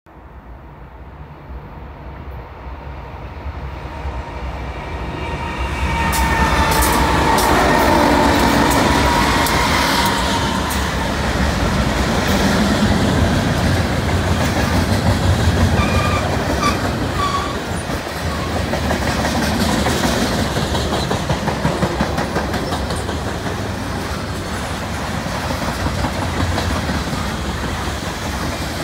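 CN freight train approaching, growing steadily louder over the first six seconds, then its freight cars rolling past close by with the clickety-clack of wheels over the rail joints.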